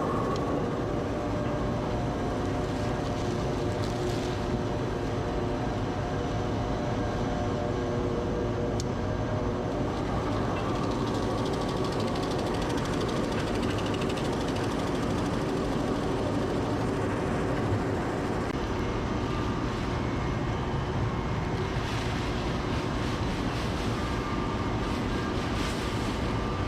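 Steady running noise of a vehicle, a continuous rumble with a low hum.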